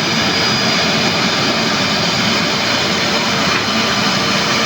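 A steady engine roar with a thin high whine over it, holding an even level throughout.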